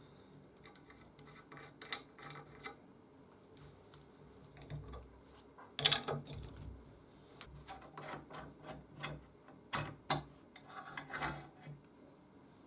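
Irregular clicks, scrapes and knocks of metal parts and hand tools being handled and worked at a bench, the loudest about six seconds in and again near ten seconds.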